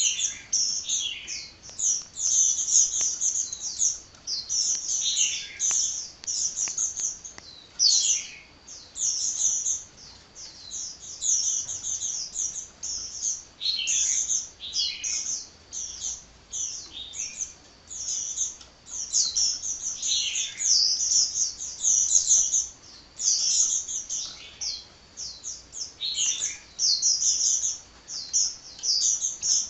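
Sunbird (Indonesian 'kolibri') singing nonstop: a fast stream of high, thin chirps and twittering phrases with only brief pauses.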